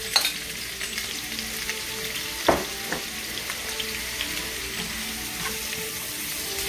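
Pre-cooked chicken strips sizzling in hot oil in a nonstick frying pan, with a few sharp utensil knocks against the pan, the loudest about two and a half seconds in.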